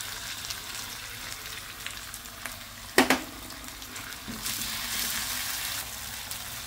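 Blended chili paste sizzling in hot oil in a steel wok as it is stirred with a metal spatula. About three seconds in, the spatula strikes the wok once with a ringing clank, and the sizzle grows louder for about a second and a half soon after.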